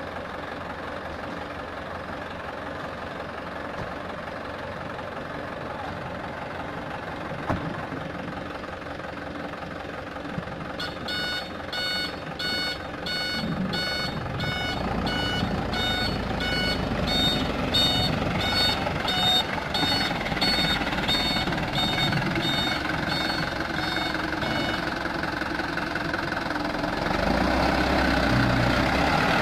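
Truck diesel engine running, growing louder from about halfway through and louder again near the end. A reversing alarm beeps about twice a second for some fourteen seconds in the middle.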